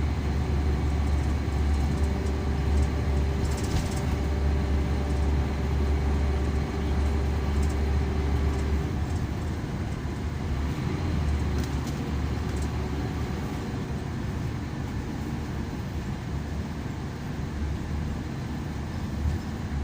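Scania K340EB coach heard from inside the passenger cabin on the move: a steady low engine drone with road and tyre noise. The engine note drops and becomes uneven about nine seconds in.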